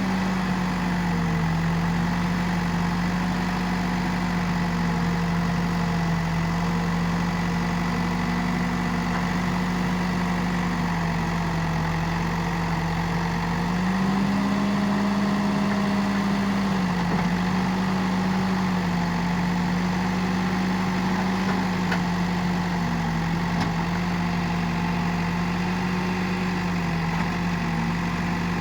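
Diesel engine of earthmoving machinery running steadily at low revs. Its speed steps up about halfway through and drops back a few seconds later.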